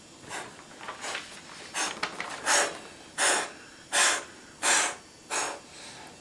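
A person puffing out breath in a steady rhythm, about eight puffs roughly two-thirds of a second apart, growing louder toward the middle and then fading: a mouthed imitation of a steam train chuffing by.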